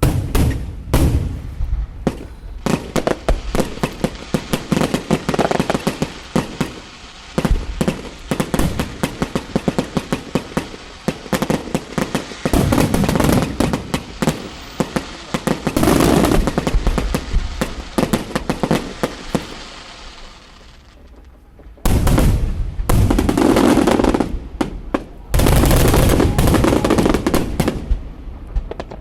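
Aerial fireworks display going off: rapid volleys of shell bursts and crackling, packed almost without a break, with a short lull about two-thirds of the way through before heavy bursts start again.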